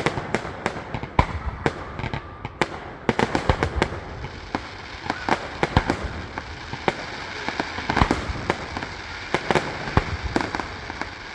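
Fireworks going off: a rapid, irregular string of sharp bangs and crackles, thickest in a volley a few seconds in and again about eight seconds in.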